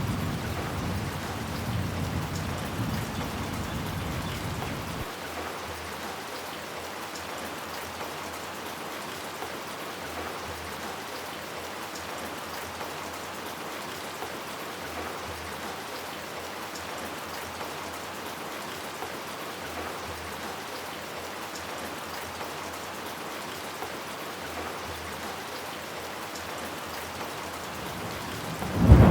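Steady rain falling on hard surfaces. A low thunder rumble fades through the first five seconds, and a loud thunderclap breaks in at the very end.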